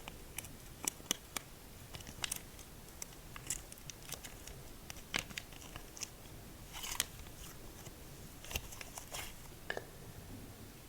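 Slime being squeezed and pressed by hand, giving irregular small pops, clicks and crackles, with a short squishy smear near the seven-second mark.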